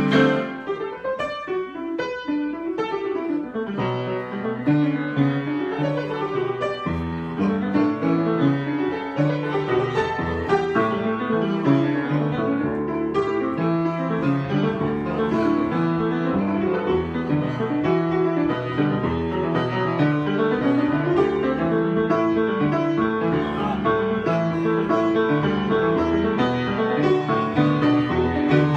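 Improvised solo piano: a continuous flow of notes with low bass notes coming in a few seconds in.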